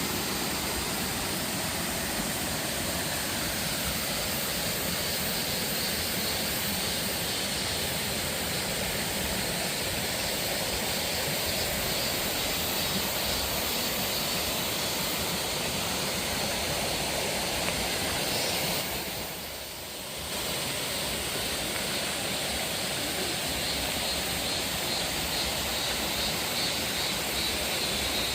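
Steady rush of a waterfall's falling water, briefly dropping away about two-thirds of the way through before returning.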